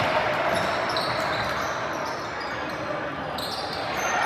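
Steady indoor game noise in a large, echoing gym: a hubbub of crowd voices and play on the court, with no single sound standing out.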